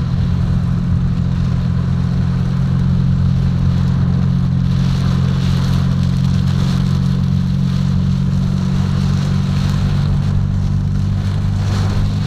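A steady low engine hum with an even hiss of heavy rain and wind over it, the hiss swelling a little about halfway through.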